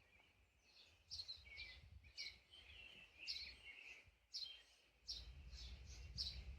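Faint birdsong: small birds chirping over and over in short high notes. A low rumble comes in about five seconds in.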